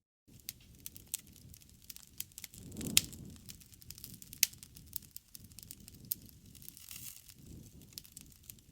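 Wood campfire crackling: irregular sharp pops and snaps over a low rumble of flames. The rumble swells about three seconds in, together with the loudest pop, and a second sharp pop follows about a second and a half later.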